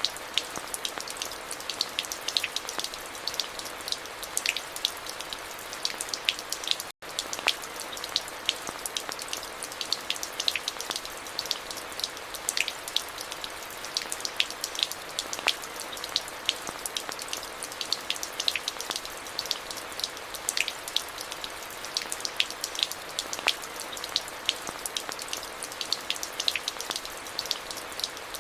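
Steady rain with many distinct, close drops striking a hard surface. The sound cuts out for a split second about a quarter of the way through.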